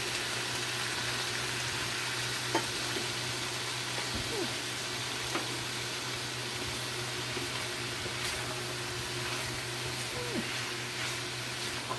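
Pork, liver and carrot pieces sizzling steadily in a frying pan as they are stirred with a spoon. A few sharp clicks come from the spoon striking the pan.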